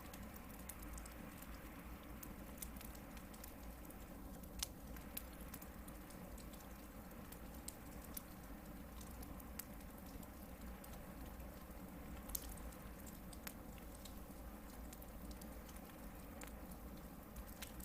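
Hardwood campfire burning: a faint steady rumble of flames with scattered sharp crackles and pops from the logs, two of them louder, about four and a half seconds in and again about twelve seconds in.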